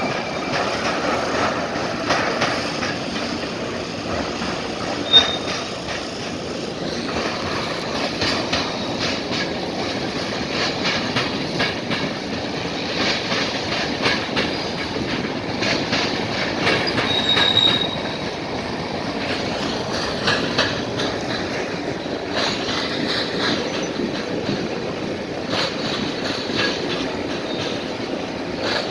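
Freight train cars rolling past, steel wheels clattering and banging over a railroad diamond crossing in an uneven run of sharp hits, with a short high wheel squeal about five seconds in and another near the middle.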